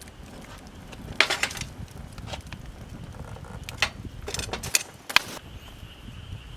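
Wood fire heating stones: a low steady rumble with several short clusters of sharp cracks and clicks, about a second in and again around four and five seconds in.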